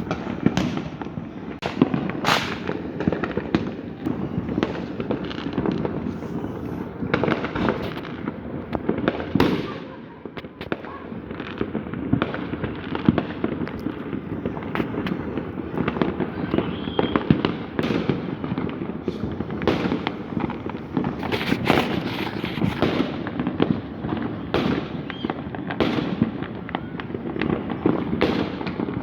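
Fireworks and firecrackers going off all around in a dense, irregular barrage of overlapping bangs and pops, with a brief lull about ten seconds in.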